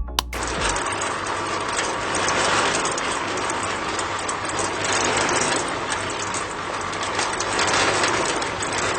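A small motor running steadily, coming in abruptly in place of music about a third of a second in.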